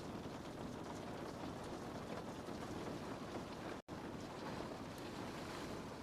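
Steady rain pattering on a window pane, an even hiss with faint scattered drop ticks. It cuts out completely for a split second nearly four seconds in, then carries on.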